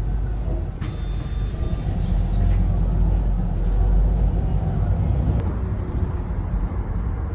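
Steady low outdoor rumble of passing traffic or wind on the microphone, with a few faint high chirps about two seconds in.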